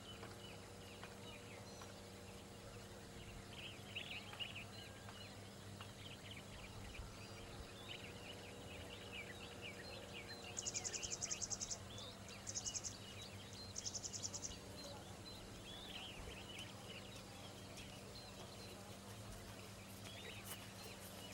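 Quiet outdoor ambience of small birds chirping, with three bursts of a rapid, high-pitched trill about halfway through, over a low steady hum.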